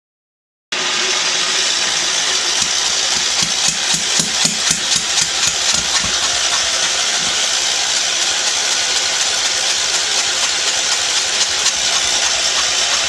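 Wheel Horse C-145 garden tractor engine being cranked by its starter without catching, with uneven firing pulses coming through for a few seconds in the middle: it fires but won't start.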